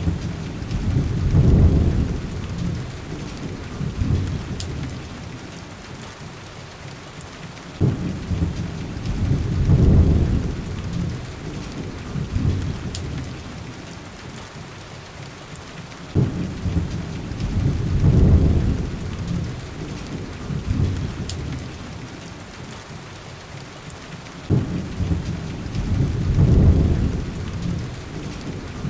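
Heavy rain falling steadily, with rolling thunder. Four low rumbles come about eight seconds apart; each starts suddenly, swells for a couple of seconds and fades back into the rain. A few faint clicks sit under the rain.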